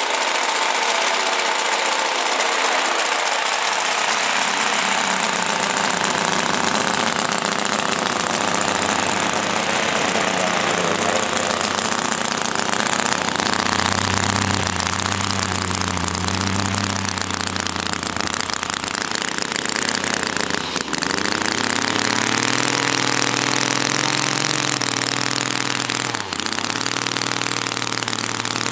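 Small home-built spark-ignition model radial engine running at speed on test. Its speed wavers, sagging briefly twice in the second half. The builder thinks its ignition timing is still not quite right.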